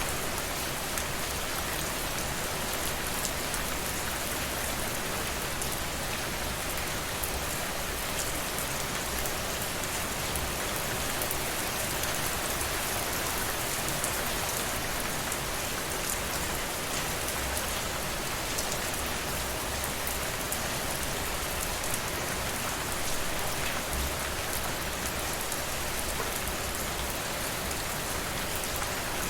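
Steady rainfall, a dense even patter of many drops hitting a surface.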